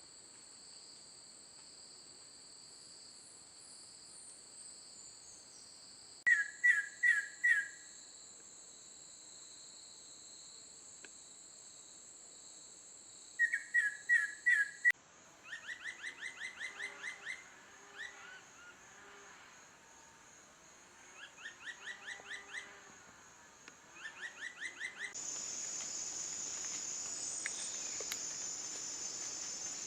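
Tropical forest insects keep up a steady high-pitched buzz while a bird calls several times in runs of four or five quick, loud repeated notes; the insect buzz grows louder near the end.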